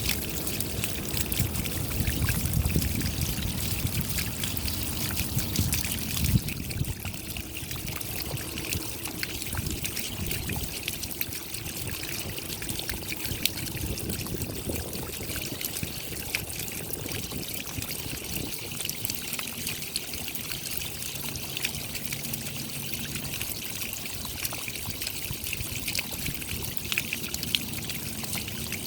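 Rain falling steadily: a dense patter of raindrops with trickling water. A heavier low rush under it drops away suddenly about six seconds in.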